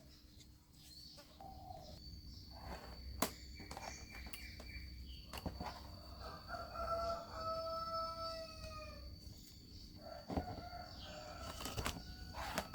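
A rooster crowing once in one long drawn-out call that drops slightly at the end, with a second crow starting near the end. A few sharp clicks and taps sound in between.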